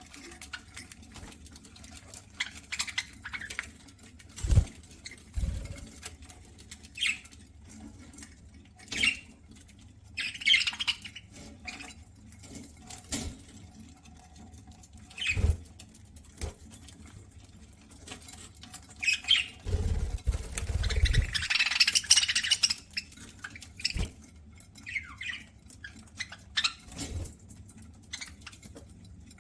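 Pet budgerigars (parakeets) eating: irregular crackly nibbling and seed-cracking clicks, broken by short high chirps and squawks. A few low thumps fall in among them.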